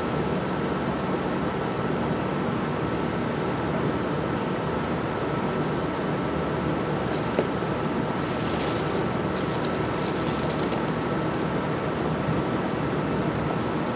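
Steady low rumble and hiss from a freight train scene, typical of diesel locomotives idling by a standing train, with a few brief high hisses and clicks about eight to eleven seconds in.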